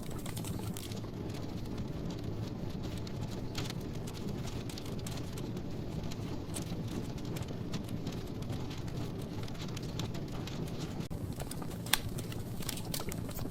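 Wood logs burning in a fireplace: a steady low rumble of the flames with scattered small crackles and one sharper pop near the end.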